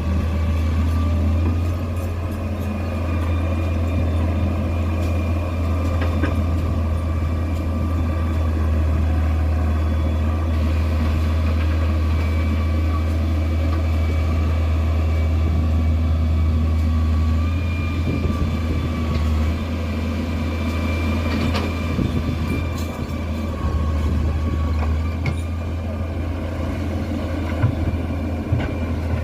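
Heavy construction machine's engine running steadily: a deep, even hum with a faint high whine over it, and a few sharp knocks near the end.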